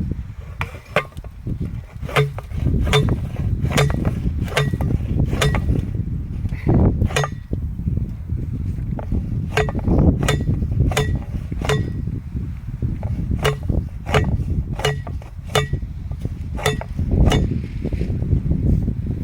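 Repeated hammer blows on metal, roughly one to two a second, each strike ringing briefly, over steady low wind buffeting on the microphone.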